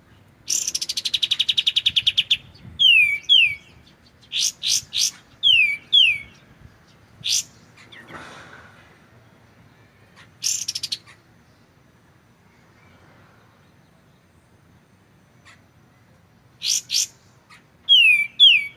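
Recorded kapas tembak (katem) calls used as a masteran track: a rapid trill of fast notes falling in pitch about half a second in, then sharp high chips and pairs of falling whistled notes. After a lull of several seconds, more chips and paired falling notes come near the end.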